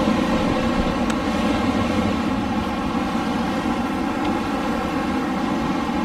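Wind blowing steadily, an even low rushing noise that holds level without gusts.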